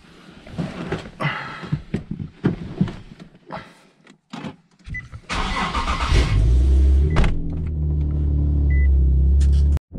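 Rustling and clicks of someone settling into a car seat, then a short beep and the Nissan 370Z's 3.7-litre V6 cranking and starting about five seconds in. The engine then idles steadily until the sound cuts off just before the end.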